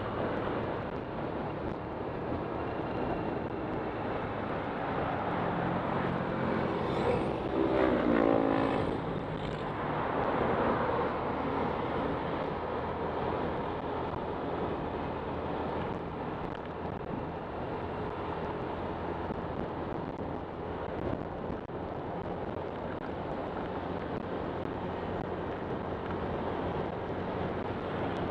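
Single-cylinder engine of a Honda Click 125 scooter running on the move, under steady wind and road noise. About seven to nine seconds in, a louder engine note rises and falls.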